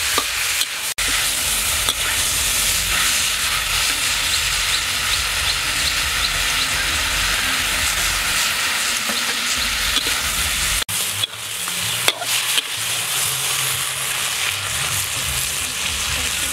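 Sliced beef heart sizzling and frying in a hot wok while a metal spatula stirs it. The steady sizzle drops out briefly about a second in and again two-thirds of the way through.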